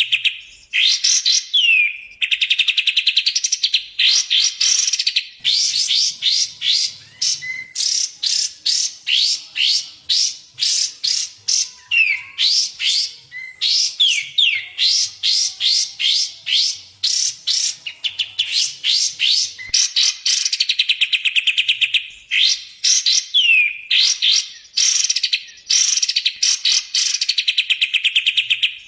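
Songbirds, kapas tembak and cucak jenggot, singing in a recorded masteran track. Bursts of fast rattling trills alternate with sharp down-slurred whistles, in phrases separated by short pauses.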